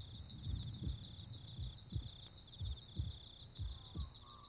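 Soft, low thumps repeating about twice a second like a heartbeat, over a steady high chirring of insects.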